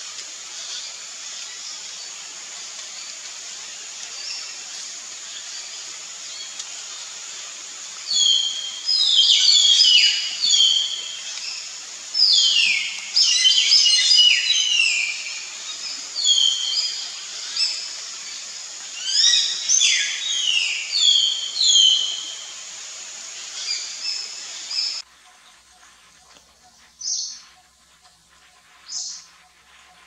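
Birds calling in bursts of rapid, loud, descending notes, several overlapping, over a steady high hiss. The calling starts about eight seconds in and stops a few seconds before the end. After the background suddenly drops away, two single short calls follow.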